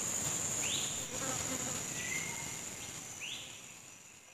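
Tropical forest insects droning steadily at a high pitch, with a few short rising calls from another animal over the top; the whole sound fades down near the end.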